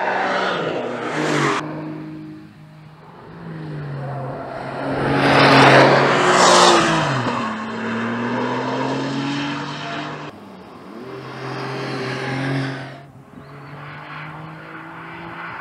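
Porsche 911 flat-six engine and exhaust revving up and down through several pulls. It is loudest about six seconds in, with a rush of noise, then the pitch drops and climbs again.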